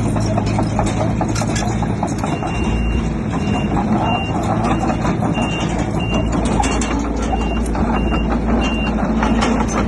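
Heavy diesel earthmoving machinery running steadily with metallic clanking, and from about two and a half seconds in a reversing alarm beeping about every two-thirds of a second as a machine backs up.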